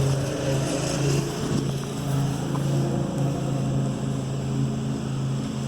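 A motor running steadily, giving a low, even hum.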